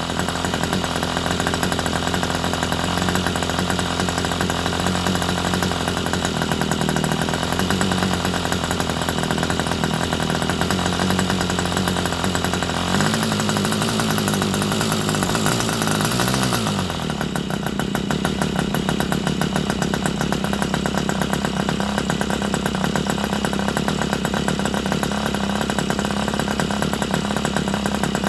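Irvine 61 two-stroke model glow engine idling on a test bench. Around halfway through its pitch wavers and shifts, then it settles into a steady, gentle idle.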